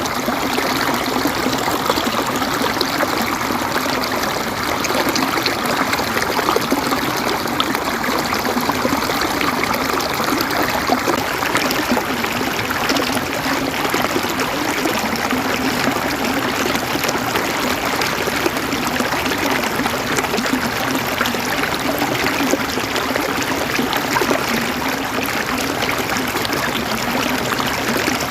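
Water flowing steadily, a continuous rushing and trickling like a stream.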